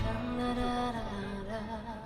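Live acoustic music: a woman's voice singing over acoustic guitar.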